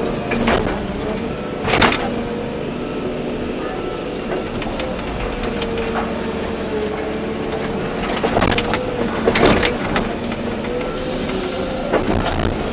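Volvo EC240B excavator's diesel engine running steadily under hydraulic load, its pitch wavering slightly, with several sharp knocks and clunks, about two seconds in, around eight to nine seconds in, and near the end, plus a hiss near the end.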